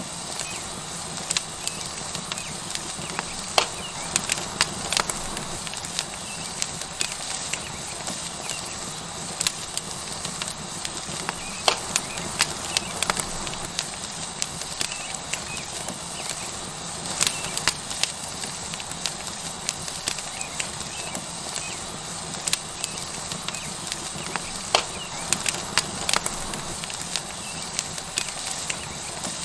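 Tomahawk steak sizzling on a hot stone over a wood fire, a steady hiss with the fire crackling in irregular sharp pops throughout.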